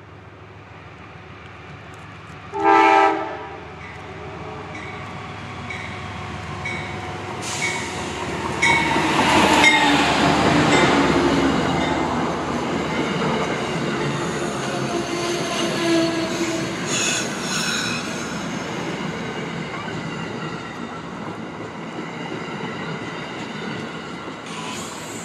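A train passing: one short horn blast about three seconds in, then the rolling rumble and clatter of wheels on rail, with some wheel squeal, growing loudest about ten seconds in and running on steadily.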